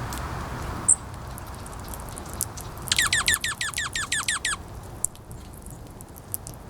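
A bird calling a quick run of about ten sharply falling notes in under two seconds, after a single short high chirp about a second in. Wind noise fades early on, and small clicks come and go throughout.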